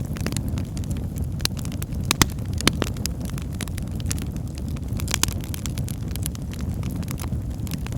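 Fire crackling in a fireplace: irregular sharp pops and snaps over a steady low rumble of the flames, with the loudest pops a little over two seconds in.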